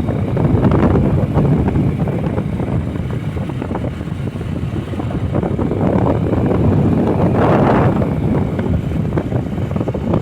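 Wind buffeting the microphone: a loud, irregular low rumble that swells in gusts.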